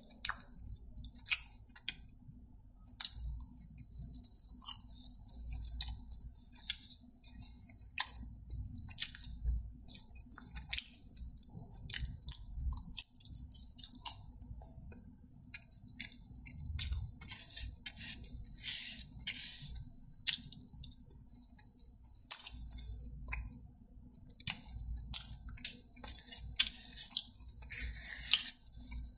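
Close-miked eating: a person chewing and biting food, a dense run of irregular sharp crunchy clicks and mouth noises.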